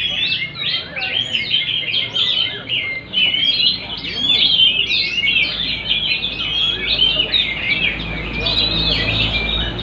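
Many caged songbirds singing at once: a dense, unbroken tangle of rapid chirps, trills and whistles. A low rumble comes in near the end.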